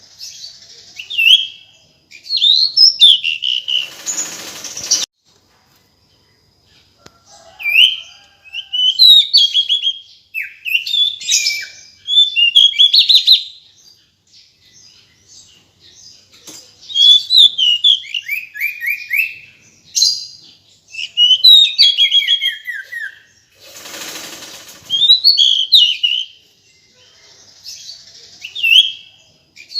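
Female pied bushchat calling: bouts of short, sharp chirps and quick descending trills with pauses between, the female's call to a male. Two brief noisy rustles break in, about four seconds in and again near the end.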